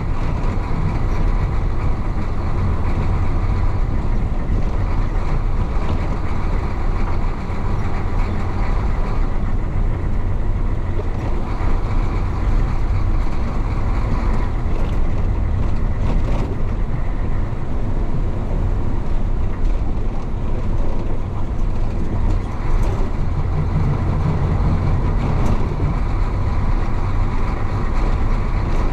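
Isuzu BXD30 bonnet bus's DA640 diesel engine running steadily as the bus drives, heard from inside the cabin as a loud, even low drone.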